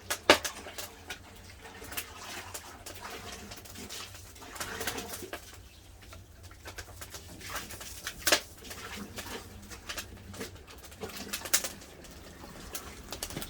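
Wood fire crackling with sharp, irregular snaps and pops, a few of them much louder, over a low steady rumble.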